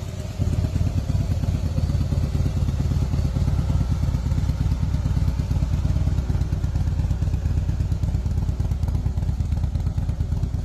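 Motorcycle engine running steadily, a fast even beat of exhaust pulses, which cuts off suddenly at the end.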